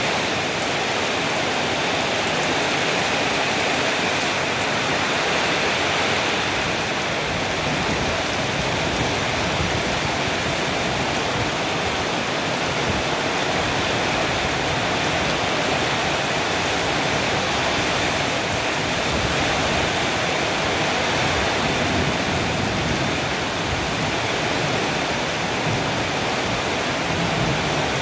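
Strong storm wind with rain, a steady, even rushing noise that holds at one level throughout.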